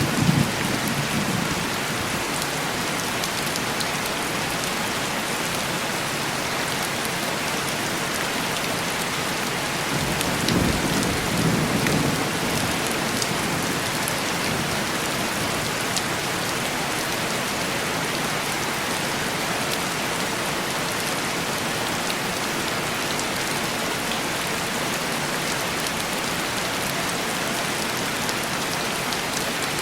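Steady heavy rain on window glass, an even hiss. A low roll of distant thunder swells about ten seconds in and fades over a few seconds, and the tail of an earlier rumble dies away at the very start.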